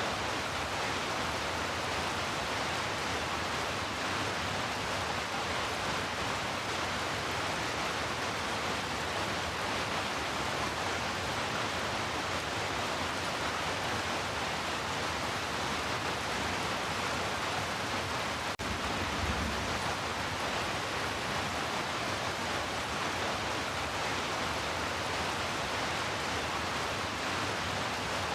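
Heavy rain falling, a steady even hiss. About two-thirds of the way in there is a single click and a brief low thump.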